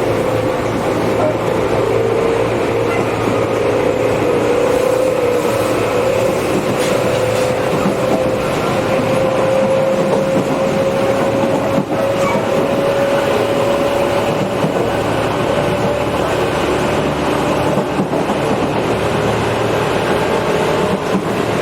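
Running sound inside a Tobu 8000-series electric train car: steady wheel and rail noise with a motor and gear whine that slowly rises in pitch as the train picks up speed, fading out near the end.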